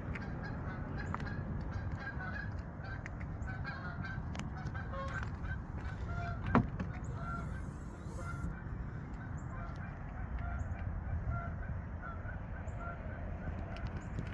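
Birds calling in short, scattered chirps over a steady low rumble, with a single sharp click about six and a half seconds in.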